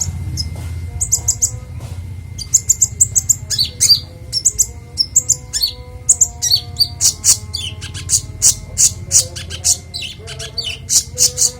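A konin songbird singing its repertoire of learned song phrases in a fast run of short, high, clear chirps and twitters that grows denser toward the end. A steady low hum lies underneath.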